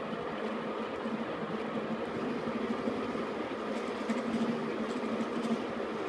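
KART E1N lathe running steadily, a continuous machine hum with a steady low whine from its motor and gearing, and a few faint ticks in the second half.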